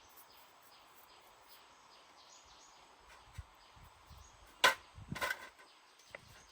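A single sharp knock about two-thirds of the way in, followed by a short clatter of smaller knocks, over a faint outdoor background.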